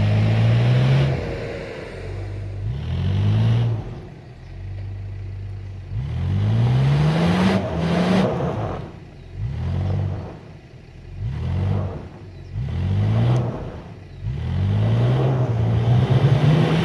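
Off-road 4x4's engine revved in short repeated bursts, about eight, each a quick rise in pitch that falls back to a steady idle, with a longer, higher rev near the end.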